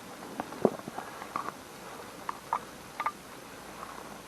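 A few light clicks and taps at irregular intervals, the sharpest a little under a second in and around three seconds in.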